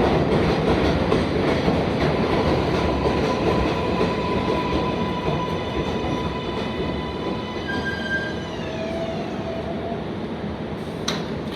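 R188 subway train on the 7 line braking into a station. Wheels rumble and squeal while the motor whine falls in pitch as it slows, dying away about eight and a half seconds in, with a sharp click near the end.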